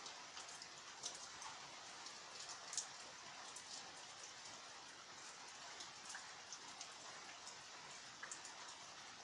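Steady light rain hissing, with scattered individual drops ticking on a surface, one sharper drop about three seconds in.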